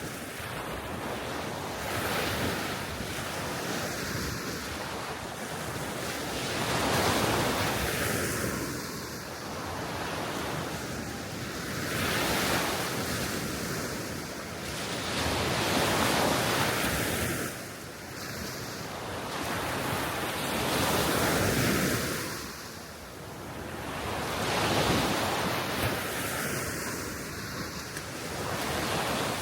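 Baltic Sea surf: small waves washing onto the shore, swelling and falling back every four to five seconds, with wind blowing.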